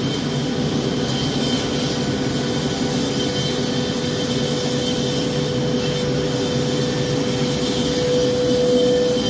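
A woodworking machine running steadily, its motor holding one steady hum, which grows a little louder near the end.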